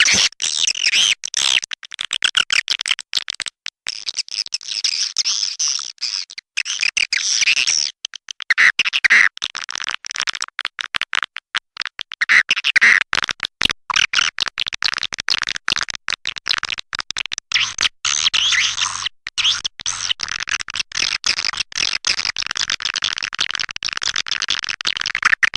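Swiftlet calling-sound track: a dense, continuous chatter of rapid swiftlet chirps and twitters, broken by many short gaps.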